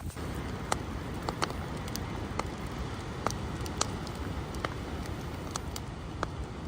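Steady rushing noise, heaviest in the low end, with sharp crackles and ticks scattered through it about once or twice a second.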